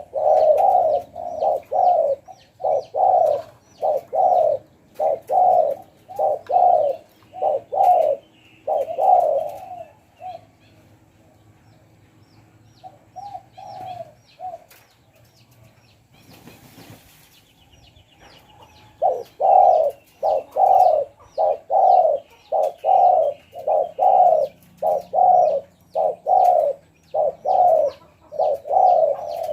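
Spotted dove cooing in a fast repeated run of about two coos a second, breaking off about ten seconds in and taking up again near the twenty-second mark. Other small birds chirp faintly in the background.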